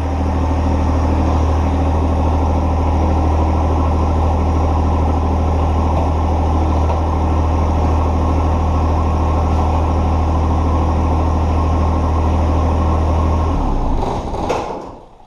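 John Deere 1025R compact tractor's three-cylinder diesel engine running steadily, then shut off near the end, the sound dying away within about a second.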